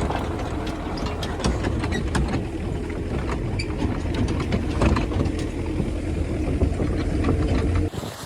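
A motor or machine running steadily with a low rumble and many rattling clicks, starting and stopping abruptly.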